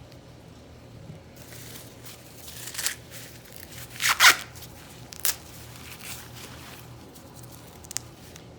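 Corn husks being peeled back and torn from an ear of sweet corn: dry rustling with a few sharp ripping tears, the loudest a double rip about four seconds in.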